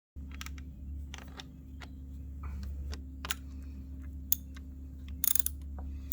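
Small scattered clicks and ticks of a screw being driven into the plastic engine cover with a 10 mm socket ratchet, with a couple of louder scraping clicks near the end, over a steady low hum.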